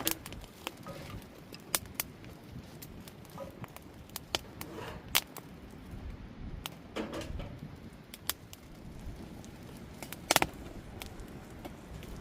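Campfire crackling with scattered sharp pops and clicks, plus a few louder knocks, the loudest about ten seconds in.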